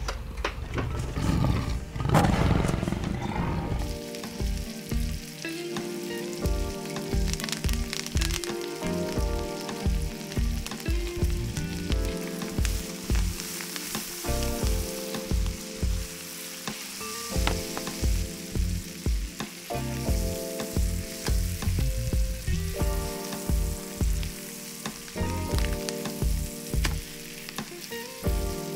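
Steak frying in a pan with onion and herbs, sizzling steadily. A loud rushing swell peaks about two seconds in, and from about four seconds in, background music with a steady beat plays over the sizzle.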